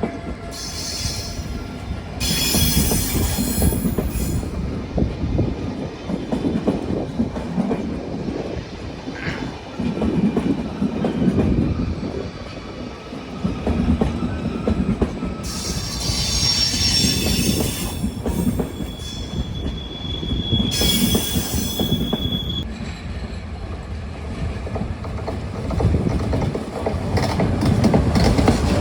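A train rolling slowly through the station, its wheels rumbling and clacking over the track, with several bursts of high wheel squeal, one of them holding a steady squealing tone for a couple of seconds past the middle.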